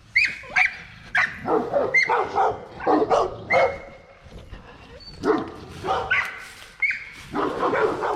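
Pet dogs barking in a string of short calls, with a brief lull midway.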